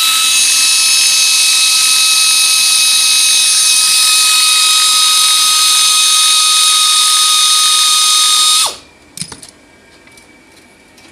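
A high-speed power tool running steadily with a loud, high-pitched whine, switched off about eight and a half seconds in and winding down quickly, followed by a few faint clicks.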